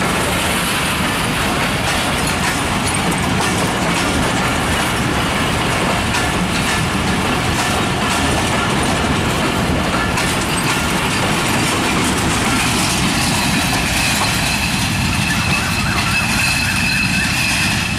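Passenger train coaches rolling past close by, a steady rumble of wheels on the rails. A thin high whine comes in about two-thirds of the way through.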